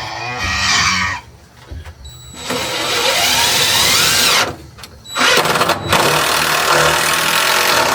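Handheld power tool running in three bursts, its motor whine rising and bending in pitch; the last burst lasts about four seconds.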